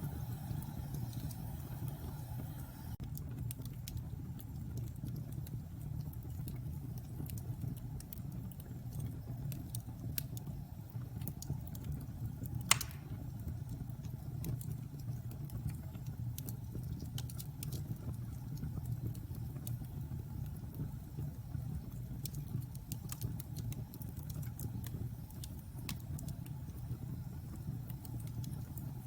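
Fireplace fire crackling: scattered small pops and snaps over a steady low rumble, with one louder pop about halfway through.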